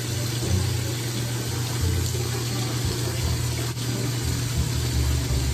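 Water running steadily, an even hiss with a low hum underneath.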